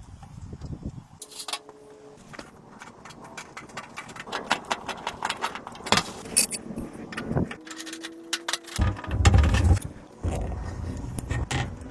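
Irregular clicks, knocks and rattles, as of hard objects being handled and set down. There is a heavier low knocking spell about nine seconds in.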